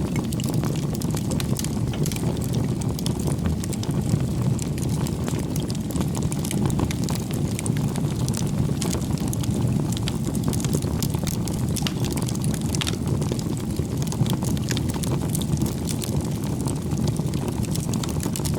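Firewood bonfire burning: a steady low rush of flames with frequent small crackles and pops throughout.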